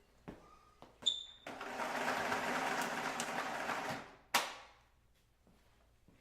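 A few light clicks, then a whirring mechanical run with a rattle for about two and a half seconds that stops abruptly, followed by one sharp clack.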